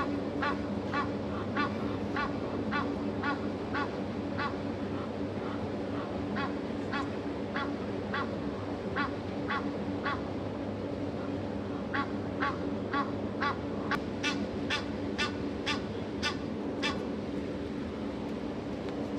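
A bird giving a long series of short, repeated calls, about two to three a second, over a steady low hum. The calls pause briefly around two-thirds of the way through, then resume.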